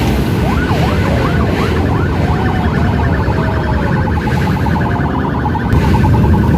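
Sirens in the passing convoy, first sweeping quickly up and down, then switching to a fast pulsing warble, over the constant rumble of motor vehicle engines.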